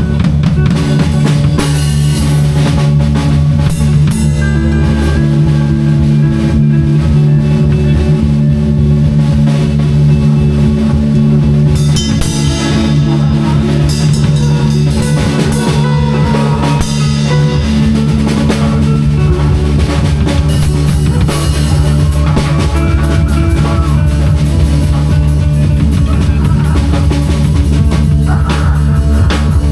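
A live band jamming: a drum kit with bass drum and cymbals under sustained low bass notes and guitar, playing an improvised rock groove.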